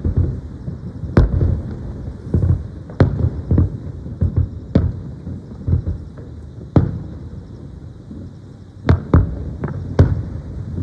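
Aerial firework shells bursting one after another at uneven intervals: sharp bangs over a continuous low rumble, with several bursts coming in quick succession near the end.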